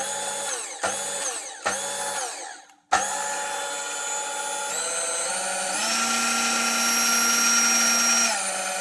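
Laretti kitchen mixer's electric motor. It is switched on in three short bursts, then runs steadily, its whine stepping up in pitch through the speed settings and dropping back down near the end. This is the sign that the repaired control board is switching and regulating the motor speed again.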